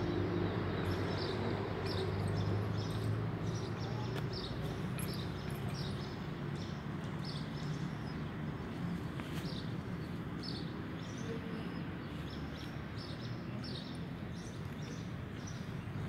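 Outdoor ambience: small birds chirping repeatedly, several short chirps a second, over a steady background hiss. A low hum eases off after the first few seconds.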